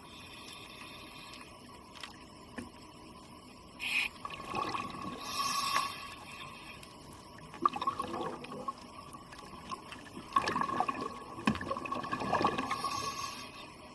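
Bubbling, gurgling water heard underwater, in several surges of a second or two each over a steady background hiss.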